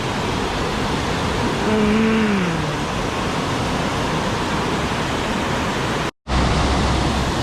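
Steady rushing of creek water, with a short hummed voice sound about two seconds in. The sound cuts out abruptly near the end and comes back with a low hum under the rush.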